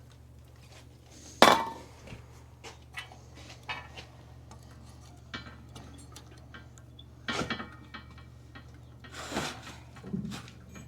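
Metal tools and parts clinking and clattering in scattered knocks during wheel bearing work, with one sharp clank about a second and a half in, over a faint low hum.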